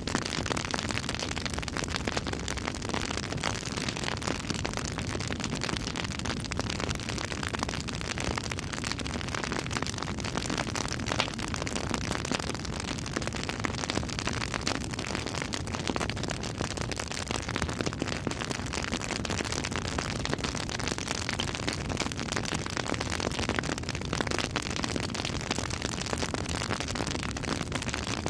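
Campfire burning, wood crackling with a steady hiss and many small pops, and one sharper pop about eleven seconds in.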